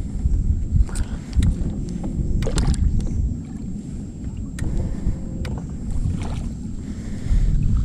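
Low wind rumble on the microphone, with a few scattered sharp clicks and knocks.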